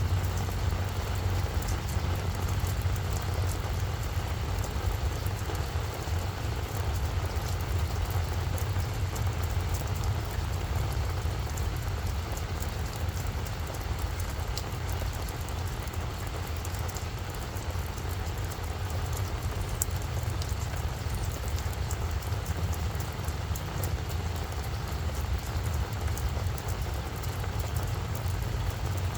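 Steady rain falling on a flower bed, with scattered drop ticks and a constant low rumble underneath.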